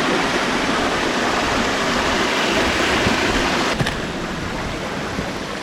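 Rushing water of a stream tumbling down a rocky waterfall, a steady dense hiss with a low rumble underneath. It drops a little quieter abruptly nearly four seconds in.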